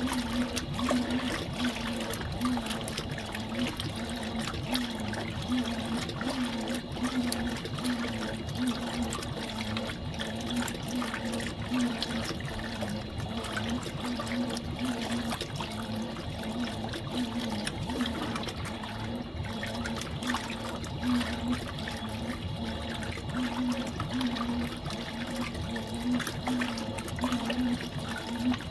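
Fisher & Paykel MW059 top-loading washing machine washing a load: water sloshing in the tub, with a motor hum that swells and fades in a quick, regular rhythm as the agitator strokes back and forth.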